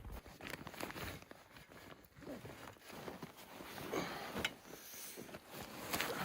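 Faint, irregular rustling, crunching and light knocks of a person moving about and handling gear in snow while packing up a camp.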